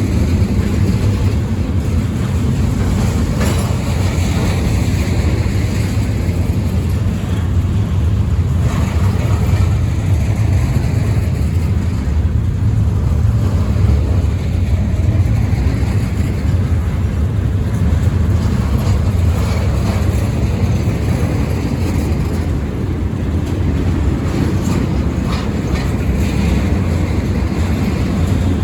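Freight train rolling past on the rails, a steady heavy rumble with wheel-on-rail clatter.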